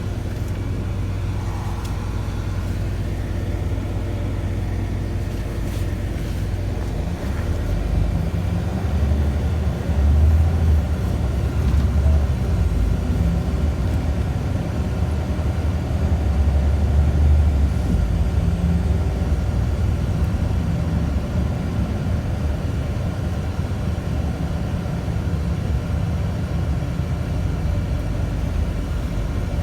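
Scania city bus running, engine and road noise heard from inside the passenger cabin. The low engine sound grows louder for about ten seconds in the middle, then settles back to a steady running level.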